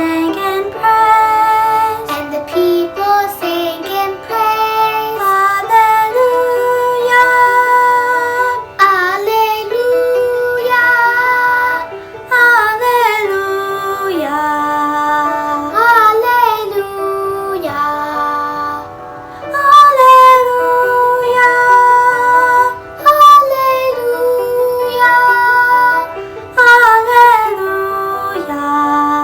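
Children's choir singing a sacred song, held notes moving through a flowing melody.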